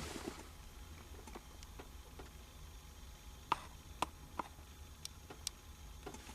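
Scattered light clicks and taps at irregular intervals, about a dozen, over a low steady hum.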